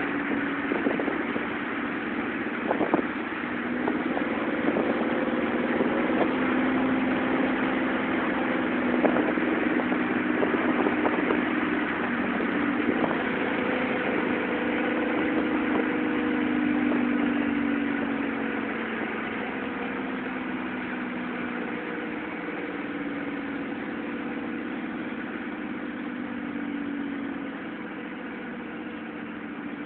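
Exhaust of a 1997 Ford F-150's 4.2 L V6, with the catalytic converter deleted and a Flowmaster 40 muffler, droning as the truck downshifts, its pitch stepping and shifting. A few sharp clicks come in the first half, and the note gets quieter over the last third.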